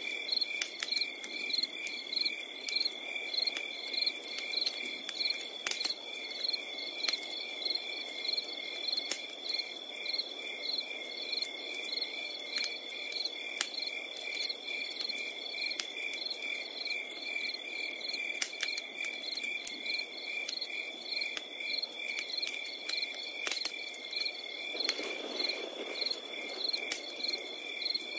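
Crickets: a steady high trill with a second chirping about twice a second. Under them a campfire crackles with scattered pops over a low hiss that swells briefly near the end.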